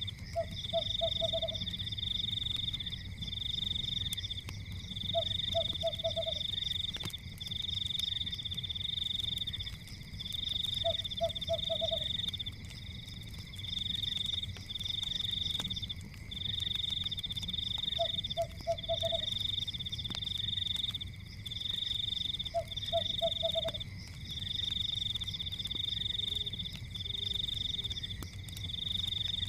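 A night chorus of frogs. A high pulsing trill comes in trains of one to two seconds with short gaps, and a lower croak of four or five quick pulses comes about every five seconds. Beneath them is a low steady rumble with faint crackles of a fire.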